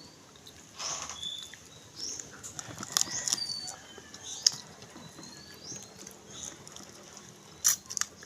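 Close-up eating sounds: chewing with scattered small clicks and cracks, a sharper crack near the end, and a few short high chirps in the background.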